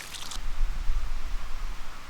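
Low rumble of wind buffeting the microphone outdoors, with a short rustle at the start that stops about a third of a second in.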